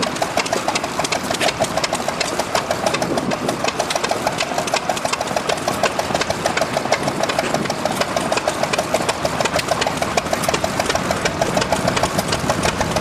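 Small stationary gas engine running steadily, a fast, even mechanical clatter of many strokes a second.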